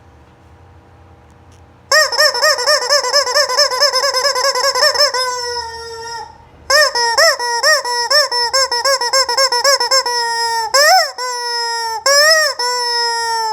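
Rubber squeaky chicken toy being squeezed over and over, giving loud high squeals, with nothing for the first two seconds. It starts as a fast wavering run of squeaks, then a drawn-out falling squeal, then more rapid squeaks and a few longer rising-and-falling squawks near the end.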